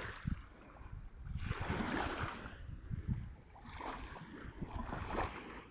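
Sea water washing and surging, swelling and ebbing every second or two, with wind buffeting the microphone.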